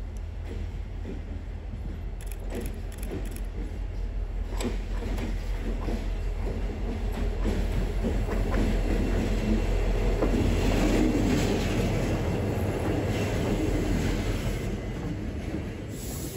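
MBTA commuter rail diesel locomotive approaching with a steady low engine drone, growing louder as it draws level and passes close by. After it, bilevel passenger coaches roll past with the rumble of wheels on the rails.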